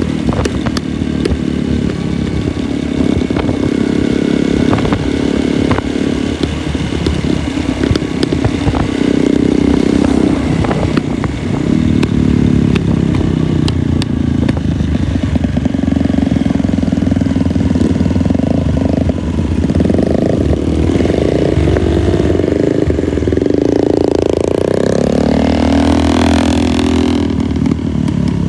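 Motorcycle engine running steadily while riding, its pitch shifting with the throttle; near the end the engine pitch rises and then falls.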